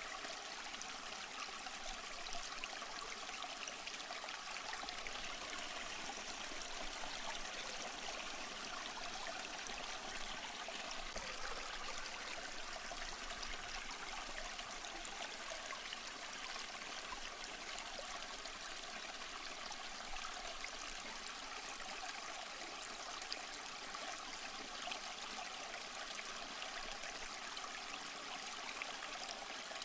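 Small stream flowing steadily, an even trickling and babbling of water.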